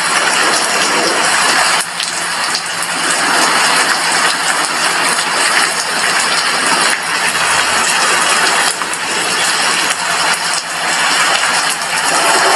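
Heavy rain falling on a glass window, a steady dense hiss of drops with no thunder.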